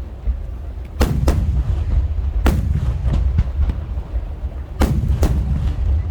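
Aerial firework shells bursting: five sharp booms, two close together about a second in, one near the middle and two close together near the end. Each boom trails off in an echo, and a continuous low rumble runs under them.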